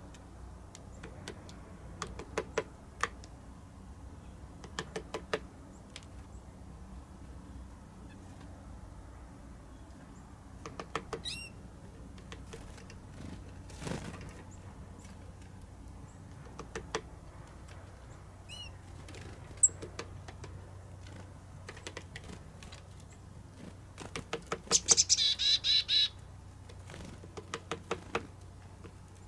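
Red-bellied woodpecker pecking at a suet feeder in short runs of sharp taps, with a few thin bird chirps. The loudest part, about 25 seconds in, is a quick run of taps together with a rolling call, over a low steady hum.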